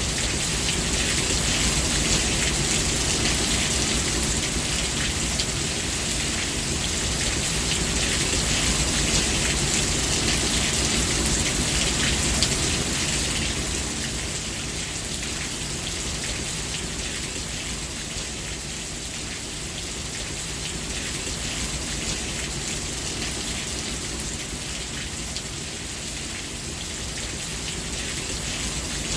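Steady rainfall: a dense, even hiss of drops pattering on surfaces, slightly louder in the first half and easing a little after about fourteen seconds.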